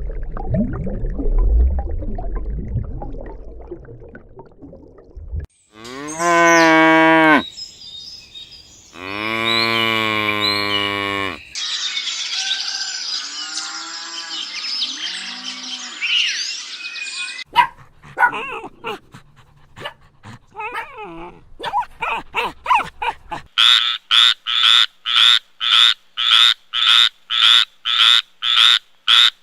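A string of different animal calls cut one after another: a low rumble, two long drawn-out calls, a noisy stretch with clicks, then a run of short repeated calls at about two a second.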